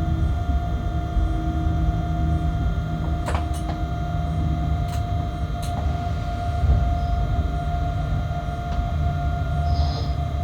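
Freight locomotive cab while the train runs: a steady low rumble with a constant hum, and a few sharp clicks between about three and six seconds in.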